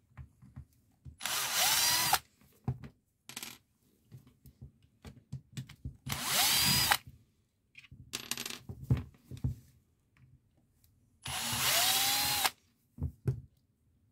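Bosch GBH 2-26 DRE rotary hammer drill triggered three times in short runs of about a second, its motor whining up and winding down each time. Clicks and handling knocks come between the runs.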